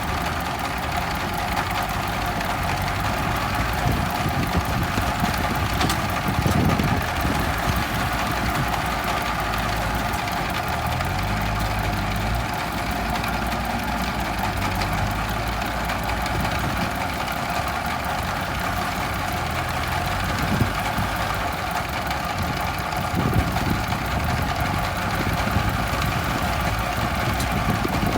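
Diesel engine of an M5018 tractor running steadily while pulling a plough through soil.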